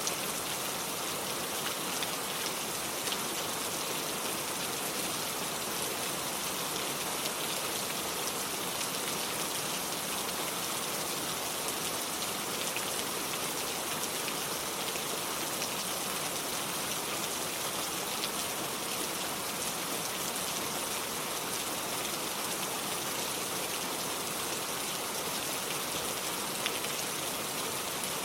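Steady rain falling, an even hiss dotted with the fine patter of countless drops.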